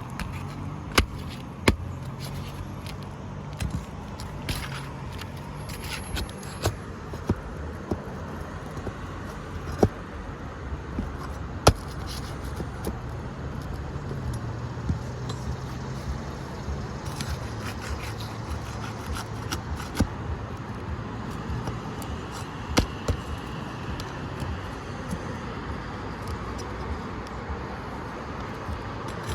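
Metal hand tools working on asphalt roof shingles: scraping and metallic clinks with a dozen or so sharp, scattered taps, the kind made loosening shingles and pulling nails. A steady low hum runs underneath.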